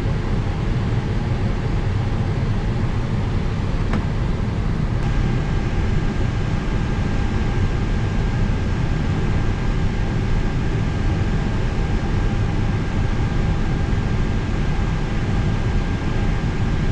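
Steady low rumble of an airliner flight deck on the ground, with aircraft systems and ground equipment running. About five seconds in, a faint steady high whistle starts and holds as external pneumatic air pressure comes on.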